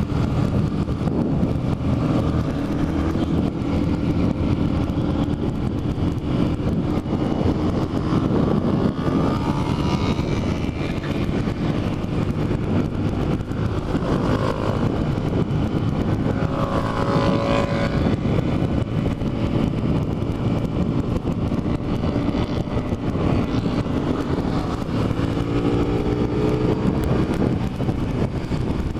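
Motorcycle riding under way: engine running with steady wind and road noise, the engine pitch rising and falling several times.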